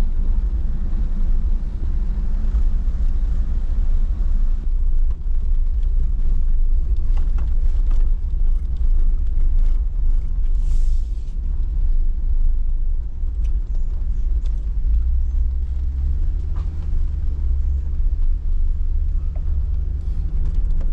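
Jeep driving a rough dirt back road: a steady low engine and drivetrain rumble with scattered clicks and knocks from the rocky surface.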